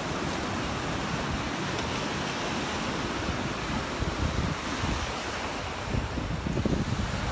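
Surf washing on the beach as a steady rush, with wind rumbling on the microphone in gusts that pick up from about four seconds in.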